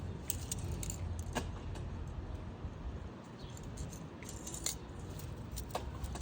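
Small metal tools clinking and jingling in scattered light clicks, handled while searching for a needle fine enough to clear a carburettor jet, over a low steady hum.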